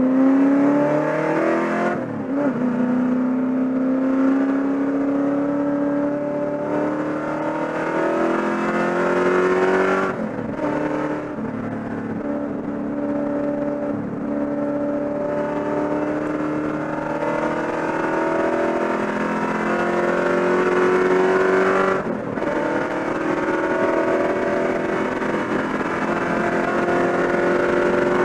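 Holden Commodore V8 race car engine running hard at racing speed, heard from inside the cabin. Its pitch climbs slowly and drops back briefly three times, about two seconds in, around ten seconds and near twenty-two seconds.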